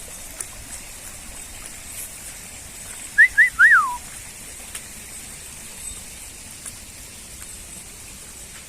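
Three short whistled notes a little past three seconds in: two quick rising ones, then a longer one that rises and slides down. Under them is a faint steady outdoor hiss.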